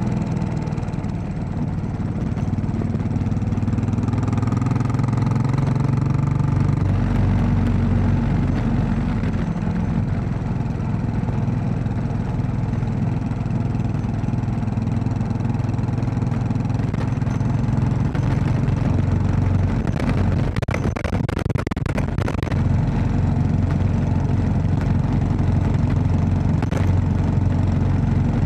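Royal Enfield Classic 500's single-cylinder engine running steadily under way, the note rising briefly a few seconds in. About twenty seconds in comes a short cluster of knocks and rattles.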